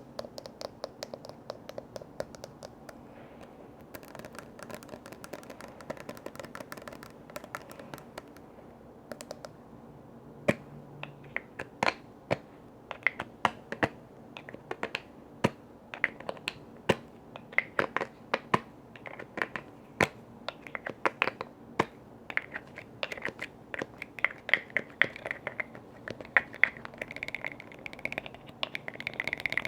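Tapping on container lids in a small room: light, fast clicking at first, then from about ten seconds in a run of sharp, irregular taps, several a second.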